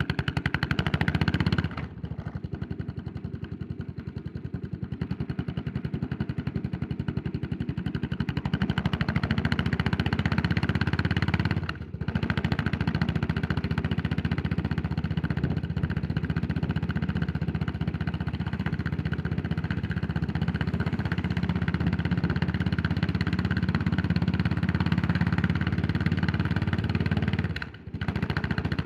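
Yamaha SR400's air-cooled single-cylinder four-stroke engine running under way, a steady fast pulsing beat. The engine note drops out briefly three times: about two seconds in, midway, and near the end.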